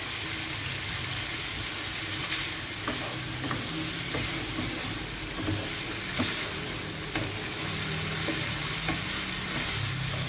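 Food sizzling in oil and butter in a frying pan, frying dry because it has released no water. A few sharp clicks of a utensil stirring against the pan are heard throughout.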